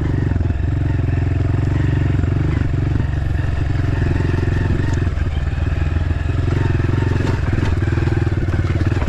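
Dirt bike engine running at a fairly steady pitch while riding.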